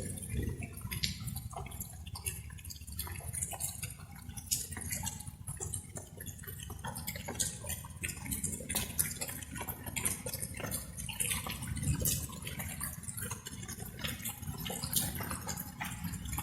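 Light rain: water drops falling and dripping irregularly, many small ticks close together over a steady low rumble.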